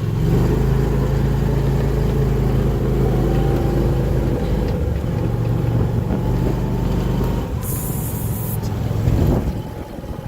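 A motor vehicle engine running steadily close by, with a brief hiss about eight seconds in; the engine sound drops away sharply about nine and a half seconds in.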